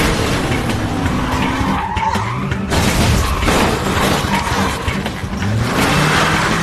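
Car chase: car engines revving hard and tyres skidding and squealing, with a sudden loud burst of noise a little under halfway through and an engine rising in pitch near the end.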